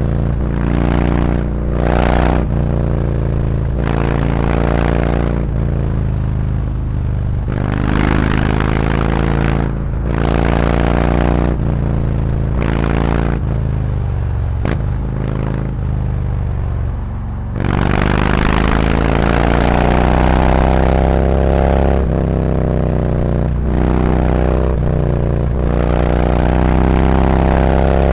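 Harley-Davidson Road Glide's V-twin through SuperTrapp 4-inch internal-disc slip-on mufflers, pulling through the gears: the exhaust rises in pitch again and again, with short breaks at each shift. It eases off and drops lower in the middle, then pulls away again, rising, a little past halfway.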